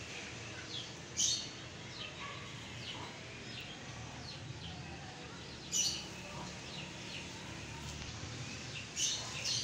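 Small birds chirping on and off. Three short, louder rustles come about a second in, near the middle and near the end, from the thin plastic kite being handled.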